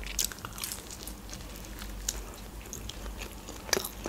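Close-miked bite into a slice of meat pizza, then chewing with many short wet mouth clicks, one louder click near the end.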